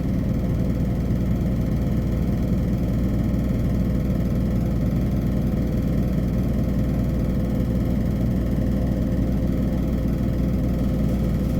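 Hino Poncho small bus's diesel engine running steadily, heard from inside the passenger cabin, a constant drone with a faint steady hum and no change in pace.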